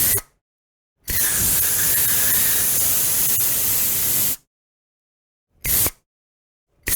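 Aerosol spray can hissing in bursts: a short puff right at the start, one long spray of about three seconds, then two more short puffs, with silence in between.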